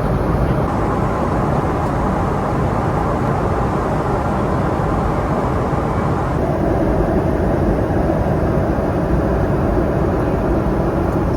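Steady cabin noise of a jet airliner in cruise, a dense low rush with no distinct tones, shifting slightly in colour about six seconds in.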